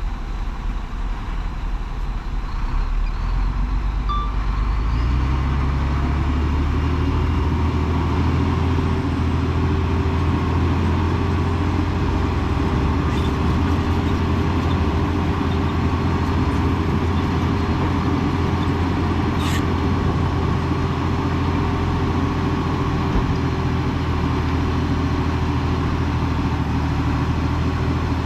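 Heavy diesel engine of earthmoving machinery running under load: a steady low rumble that grows louder about four seconds in, then holds steady.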